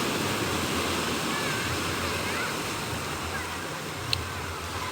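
Sea waves breaking and washing up a beach in wind: a steady rushing noise with a low rumble. A single sharp click about four seconds in.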